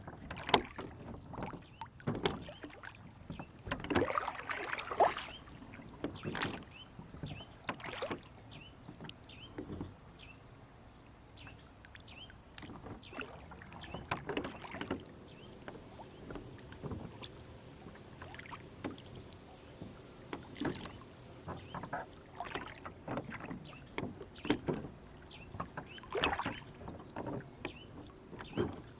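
Water sloshing and splashing around a wooden rowboat on a lake, with irregular knocks and splashes from the hull and oars.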